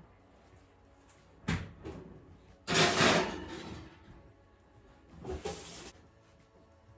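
Household handling noises: a sharp knock about a second and a half in, then two noisy bursts, the loudest near the middle and a shorter one near the end.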